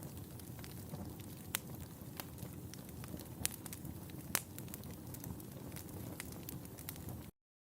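Wood fire in a fireplace crackling: a steady low rustle of flames with scattered sharp pops and snaps, a few of them louder. The sound cuts off abruptly near the end.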